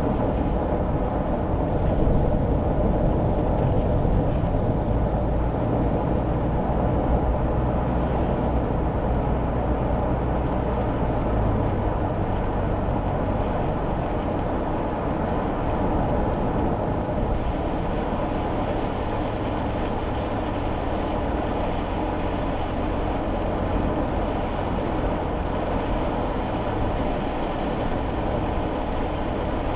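Steady low rumble of a kei car driving, heard from inside the cabin: engine and tyre noise. The low engine hum drops away about twelve seconds in.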